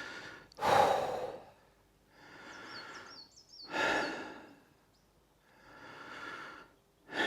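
A man breathing heavily and slowly: two strong exhales about three seconds apart with softer inhales between. A small bird chirps briefly in high, quick calls.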